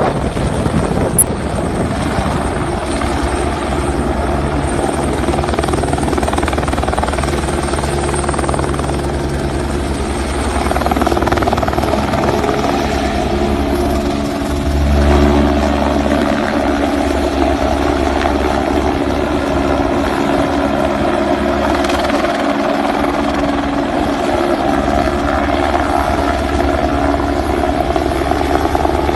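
Helicopter running close by, its rotor chopping in a steady rapid pulse under the engine's whine, briefly louder about halfway through.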